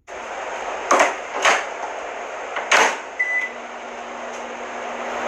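Microwave oven running with a steady hum, with several sharp knocks during the first three seconds and one short beep about three seconds in.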